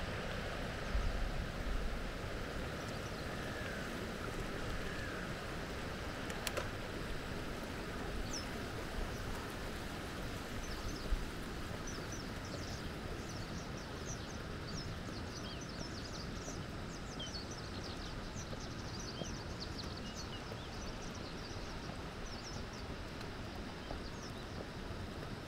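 Outdoor riverside ambience: a steady rushing background noise with low rumbles, and from about eight seconds in many short, high chirps from small birds.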